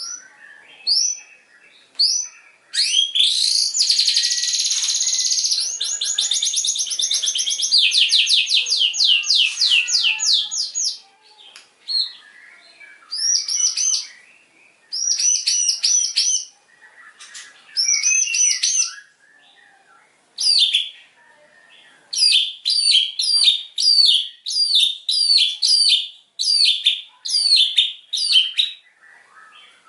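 White-rumped shama (murai batu) in full song. A few short whistles are followed by a long, fast rattling series of repeated notes, then separate clear whistled phrases, and near the end a quick run of repeated down-slurred notes.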